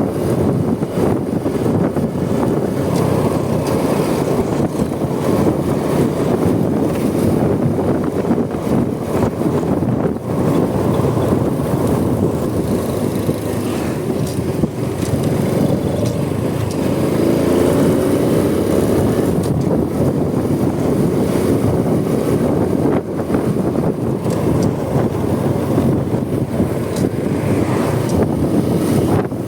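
Riding noise from a Honda Supra X 125 motorcycle: its single-cylinder four-stroke engine running at speed under heavy wind rush on the microphone. An engine note swells and wavers for a few seconds a little past the middle.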